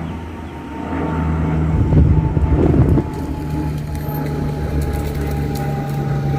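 De Havilland Canada Dash 8 Q200 twin turboprop climbing out low overhead, a steady propeller drone with a higher tone that slowly falls in pitch. A louder rush of noise comes about two to three seconds in.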